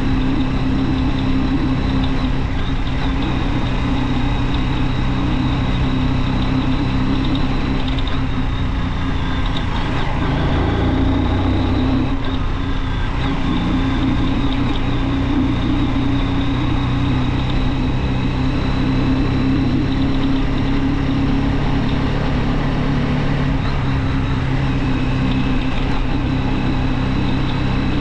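Junak M12 motorcycle engine running steadily while riding. Its note dips briefly about ten seconds in and then picks up again.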